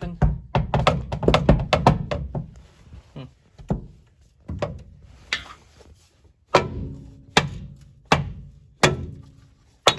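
Repeated knocks as the stuck transmission extension housing of a 6.5-litre turbo diesel truck is tapped to break it loose. A quick flurry of blows comes in the first two seconds or so, then single strikes about once a second, some with a short ring.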